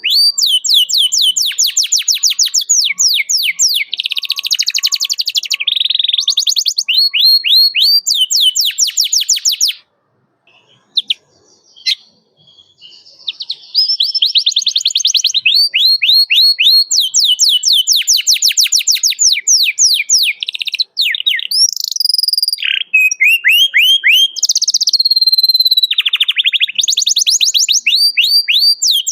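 Canary singing: fast rolls of repeated downward-swept chirps, many per second, changing from phrase to phrase, with a break of about three seconds near the middle.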